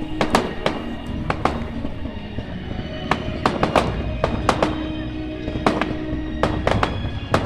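Fireworks display: a string of sharp bangs in irregular clusters, over background music with held notes.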